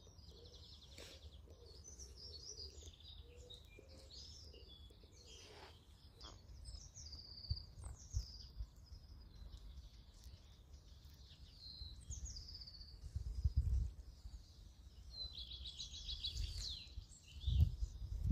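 Songbirds chirping and singing in many short calls, with a quick trill a couple of seconds before the end, over a faint low rumble that swells twice near the end.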